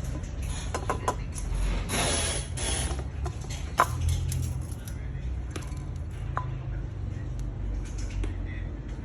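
Irregular clicking and scraping with a few short, light metallic clinks, over a steady low hum.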